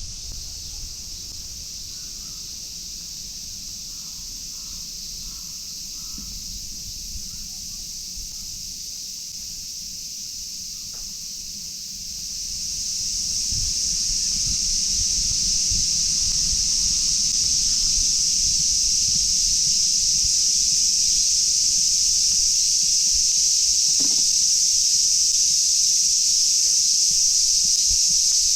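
Cicadas calling in a steady high-pitched chorus that swells louder about twelve seconds in and holds.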